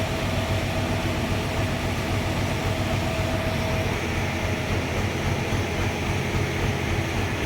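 Sawmill running steadily: a continuous mechanical drone with a low, fast-pulsing rumble, and a thin steady whine that fades out about four seconds in.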